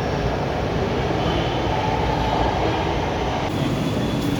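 Lahore Orange Line metro train running, a steady low noise with no distinct beats; a higher hiss joins in about three and a half seconds in.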